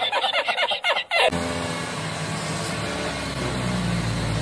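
A man's cackling laugh for about a second, then cut off by a car engine running steadily as an Infiniti car reverses out of a garage, growing slightly louder.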